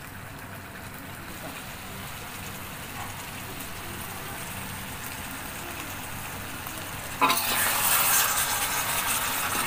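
Catfish in a thick coconut-milk sambal simmering and sizzling in a stainless steel wok, a steady soft sizzle. About seven seconds in it turns louder as a metal spatula stirs and scrapes through the pan.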